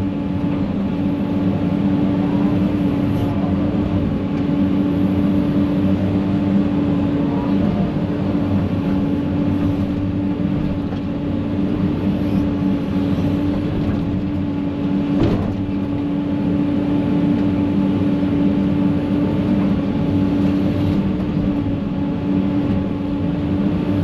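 Excavator's diesel engine running steadily under work with a steady hum, with one sharp knock about halfway through as it digs through a brush pile.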